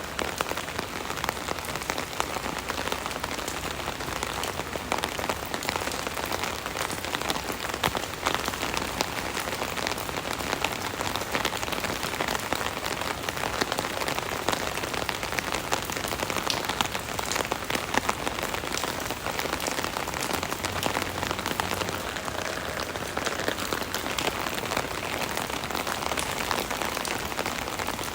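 Steady rain drumming on an umbrella canopy, a dense patter of many drops heard from underneath it.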